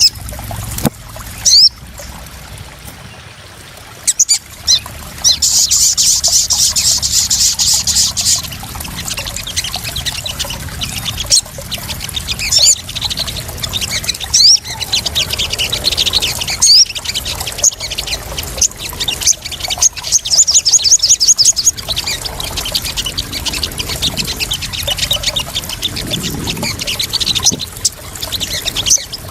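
Small birds calling in rapid, high-pitched chirps and trills over trickling, splashing water, used as a lure sound for sogon birds.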